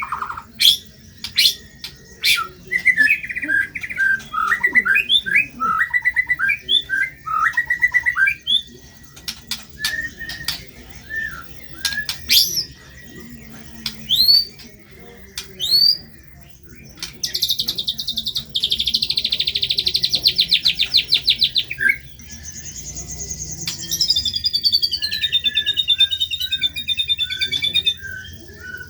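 White-rumped shama (murai batu) singing a varied, fast song of sharp whistles, chirps and trills, with a long rapid buzzing chatter about halfway through and a falling string of notes near the end.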